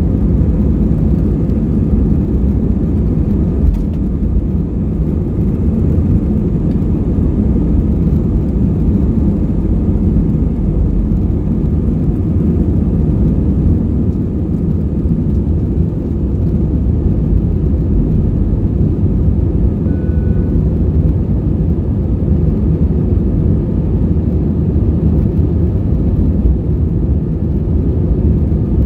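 Steady low rumble of an Airbus A320-232's IAE V2500 turbofan engines and airflow, heard inside the passenger cabin.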